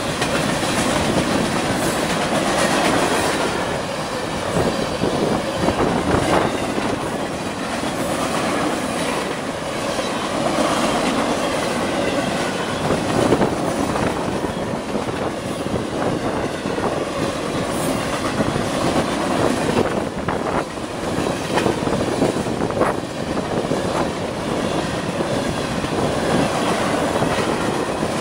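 Freight cars of a long, fast CSX freight train rolling past close by: a steady, loud rumble of steel wheels on the rails, with scattered sharp clicks as the wheels cross rail joints.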